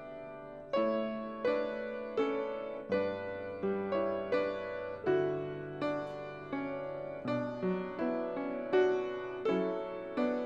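Solo piano playing a slow instrumental piece, a new chord or note struck about every three-quarters of a second and left to ring and fade.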